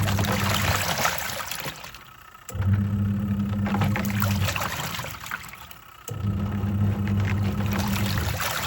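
Twin-tub washing machine's wash tub agitating a load in water: the motor hums in runs of about two seconds with water churning, then pauses and starts again, twice in this stretch.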